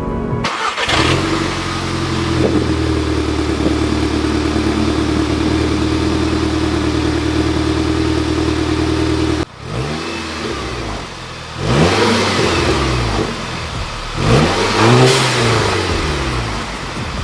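VW Mk6 GTI's turbocharged 2.0-litre four-cylinder, heard through a muffler-deleted exhaust, running steadily for about nine seconds. After an abrupt cut it is revved up and back down several times.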